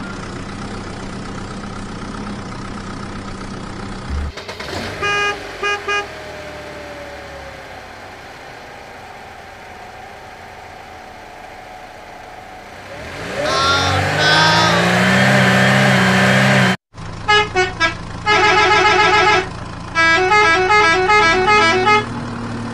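Electronic toy-vehicle sound effects: short runs of rapid beeping, horn-like jingles over a steady low hum, with a louder stretch of gliding, siren-like tones past the middle.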